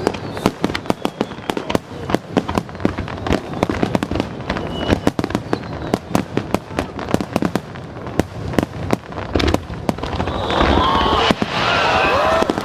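Aerial fireworks shells bursting and crackling in rapid succession, many sharp bangs every second. The barrage grows louder and denser over the last couple of seconds.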